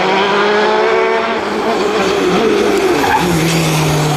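World Rally Car's 1.6-litre turbocharged four-cylinder engine running hard at high revs, the pitch wavering up and down as the driver works the throttle, then stepping lower about three seconds in.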